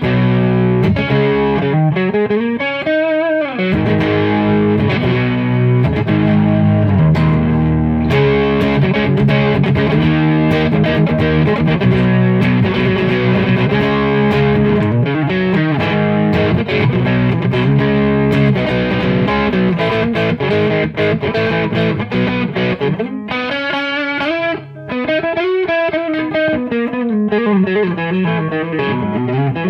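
Electric guitar on its neck pickup played through an overdrive pedal in LED clipping mode: a fat, mid-heavy crunch playing chords and riffs, with bent and vibrato notes. It is a growly, rock-and-roll overdrive.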